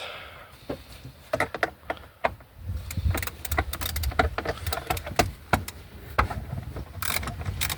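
Scattered clicks, taps and light metallic rattles of tools and loose parts being handled inside a car. A low hum runs underneath from about three seconds in.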